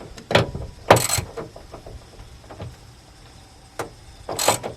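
Hand tools and small metal parts being handled while fitting a truck's starter solenoid: a few short clinks, rattles and scrapes, the loudest about a second in and another near the end.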